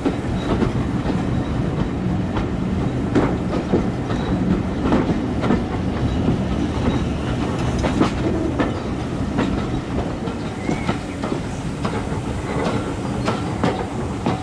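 Railway passenger carriage running over jointed track, heard from an open window: a steady rumble with the wheels clicking over rail joints at irregular intervals.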